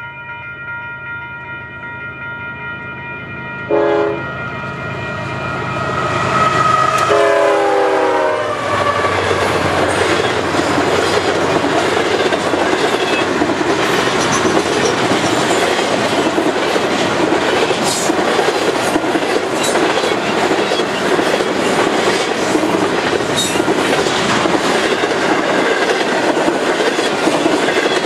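Freight train horn sounding a multi-tone chord as the train approaches, with a short louder blast about four seconds in; the horn's pitch drops as the lead locomotive passes, then a long double-stack container train rumbles by with wheels clicking over the rail joints.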